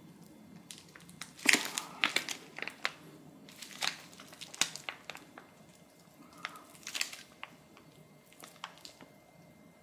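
Plastic packaging crinkling and crackling in irregular handfuls while sauce is squeezed out onto noodles, with a few sharp clicks.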